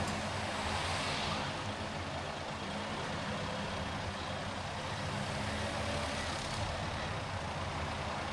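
Car driving in city traffic: steady engine and road noise, with a brief swell of hiss about a second in.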